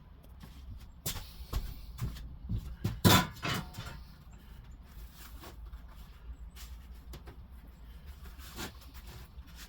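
Scattered knocks and clunks of workshop handling. They cluster in the first four seconds, with the loudest about three seconds in, then thin out to a few faint taps.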